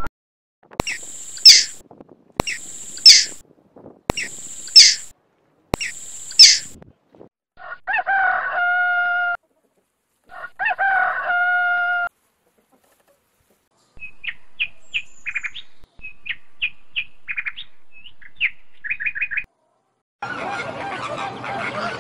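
Chickens calling: four short high calls evenly spaced, then a rooster crowing twice with long held crows, then a run of quick short clucks. About two seconds before the end, a flock of flamingos starts honking.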